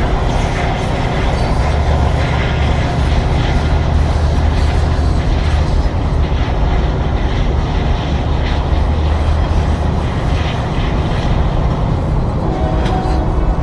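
Union Pacific weed sprayer train running along the track, a loud steady rumble of its engine and wheels on the rails, with the locomotive's horn starting to sound near the end.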